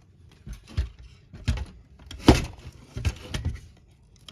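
Handling noises from plastic model-kit parts: a handful of separate light knocks and clicks as the parts and wiring are moved and set down, the loudest a little past two seconds in.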